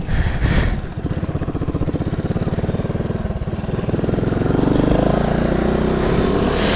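Honda Pop 110i's single-cylinder four-stroke engine through a tin aftermarket exhaust, puttering at low revs with distinct firing pulses, then picking up speed with rising pitch about four seconds in. A short hiss comes near the end.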